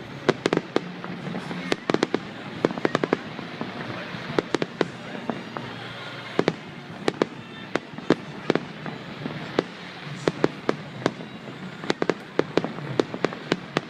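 Fireworks display: a dense, irregular run of sharp bangs, several a second, over a continuous rumble of the show.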